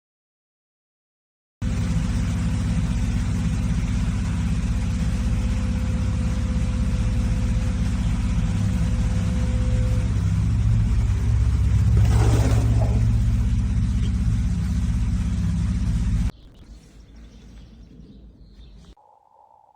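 Steady low vehicle rumble that starts suddenly and cuts off abruptly about three seconds before the end, with a brief brighter rush of noise about two thirds of the way through.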